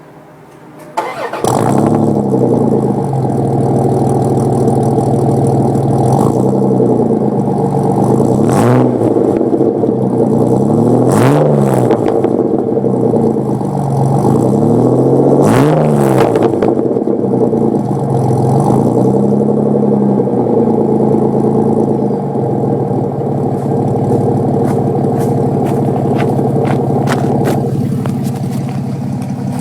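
Dodge Dakota 3.9 L V6 starting about a second in through a straight-piped exhaust with no catalytic converter and a Thrush glasspack, then idling as the throttle is blipped several times, each rev rising and falling, before it settles to a steady idle.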